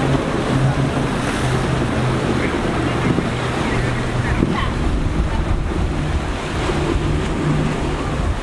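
Wind buffeting the microphone over rough surf breaking in an inlet, with a boat engine's low drone that fades out partway through and returns near the end.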